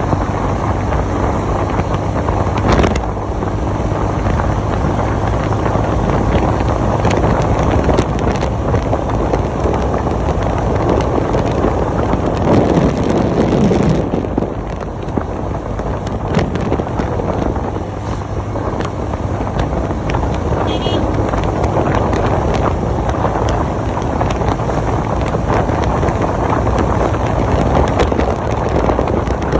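Honda motorcycle running at riding speed, with wind buffeting the microphone in a steady loud rush.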